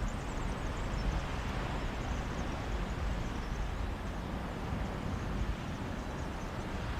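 Mediterranean sea surf washing on a beach as a steady wash of noise, with a low rumble of wind buffeting the microphone.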